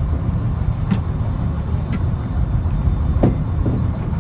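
Fishing trawler's diesel engine running with a steady low rumble, broken by a few short knocks about one, two and three seconds in.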